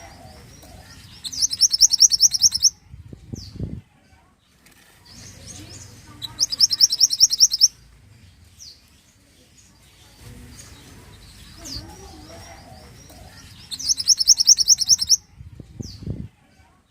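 Mantenan songbird singing: three bursts of fast, high, trilled notes, each about a second and a half long, with a short high slurred note after each. A low rustle follows the first and last bursts.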